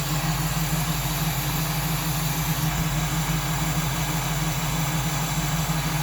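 A 302 V8 idling steadily at a low idle. The owner cannot tell whether it is misfiring, running rich (he suspects jets that are too big) or has its timing off.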